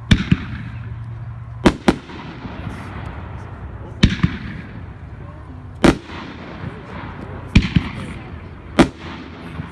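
Consumer fireworks cake firing: sharp bursting reports, about eight of them at uneven gaps of one to two seconds, some in close pairs, over a steady rush of background noise.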